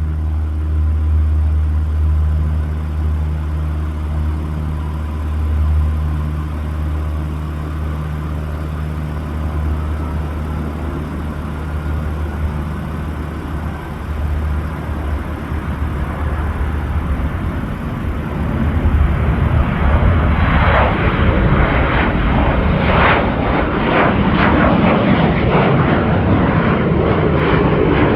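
Embraer E175 regional jet's twin turbofans on takeoff: a faint rising whine over a steady low hum, then from about two-thirds of the way in a much louder jet roar with crackling that holds to the end.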